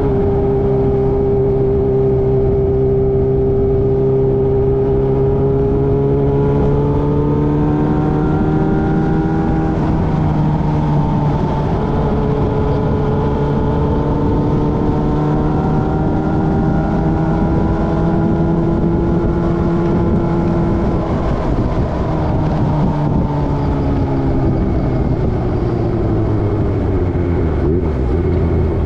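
Motorcycle engine running at cruising speed, its pitch holding steady, then rising and falling gently several times as the throttle and gears change, with rushing wind and road noise.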